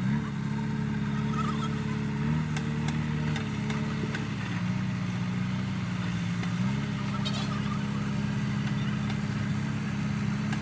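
Tractor diesel engine running under load, its speed stepping up and down: it rises at the start, drops about halfway through, then rises again and holds higher for the rest.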